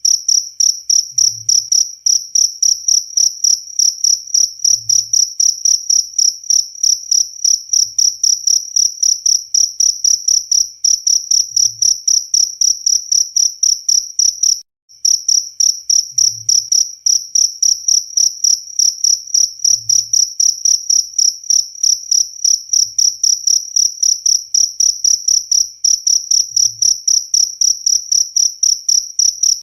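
Cricket chirping in a loud, high, even rhythm of quick repeated chirps, with a brief break about halfway through.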